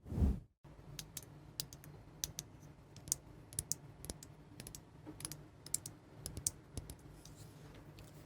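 A soft whoosh, then a run of light, irregular clicks and taps from small objects being handled, several a second, over a faint low hum.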